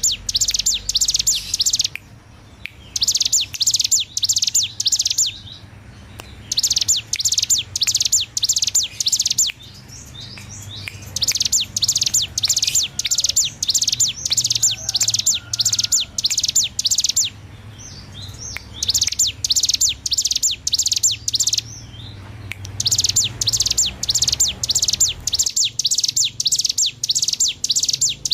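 Ciblek gunung (hill prinia) singing gacor: bursts of a few seconds of rapid, evenly repeated high notes, about five a second, in the fast rattling ngebren style, with short pauses between the bursts.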